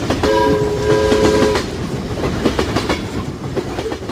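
Train running along the track with wheels clattering over the rail joints. A horn sounds for about a second and a half near the start.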